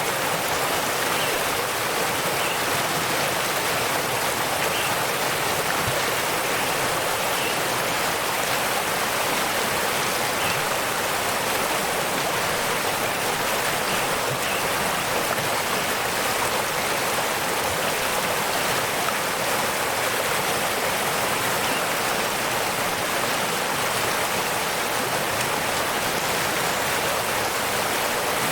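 A waterfall's steady rush of water, an even hiss that never lets up.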